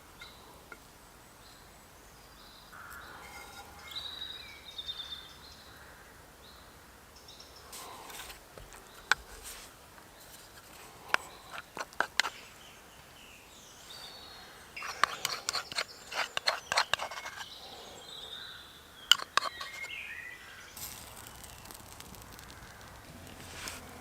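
Woodland birds chirping in short calls, with scattered sharp clicks and knocks and a dense run of them past the middle.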